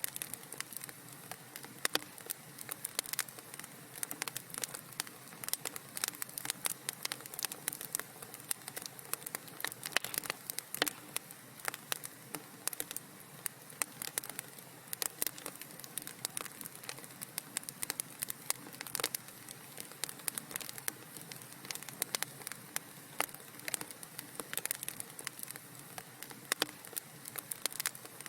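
Wood fire crackling in a fireplace: many sharp, irregular pops and snaps over a steady soft hiss.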